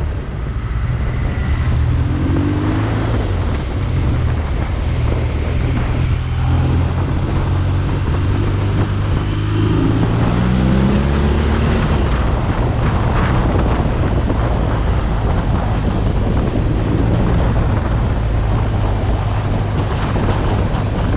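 BMW R nineT Urban G/S boxer-twin engine running under way, its pitch rising and falling a few times in the first half as the bike accelerates and shifts. Wind buffets the microphone, growing rougher in the second half.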